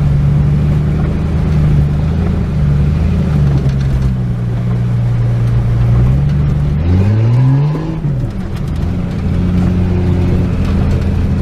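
A vehicle's engine running under load while driving through a flooded road, over a steady rushing noise. About seven seconds in it revs up in pitch, then drops back.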